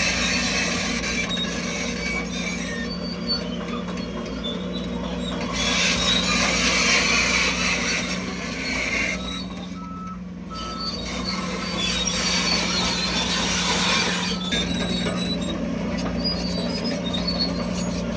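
Heavy earthmoving machinery at work: a diesel engine runs with a steady low hum under a hissing noise that swells and fades, with short high squeaks scattered through it.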